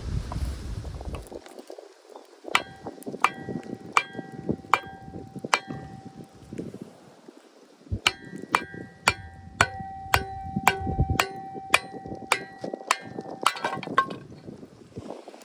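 A hammer striking a metal wood-splitting tool to split kindling. There are two runs of sharp metallic strikes, each ringing on: first about six blows, then about a dozen quicker ones near two a second.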